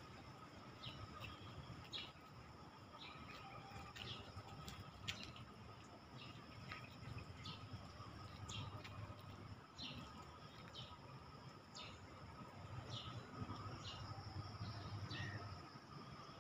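Faint outdoor ambience with birds chirping: short, scattered chirps, about one or two a second, over a low steady background rumble.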